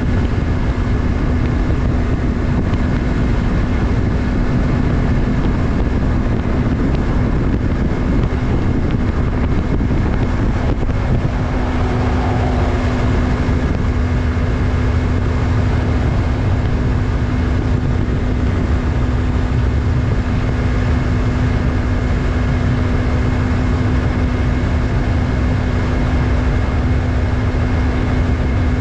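Yamaha MT-03's 321 cc parallel-twin engine running at a steady engine speed while the motorcycle cruises, with wind and road noise underneath.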